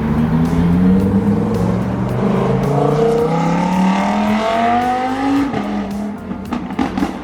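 A car engine accelerating, its pitch rising steadily for about five seconds, then falling away suddenly as the throttle closes. A few sharp clicks come near the end.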